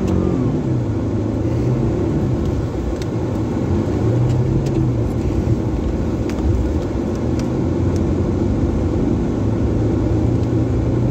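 Vehicle engine running under load as it drives through snow, heard from inside the cab, its pitch rising and falling with the throttle. A few light clicks sound over it partway through.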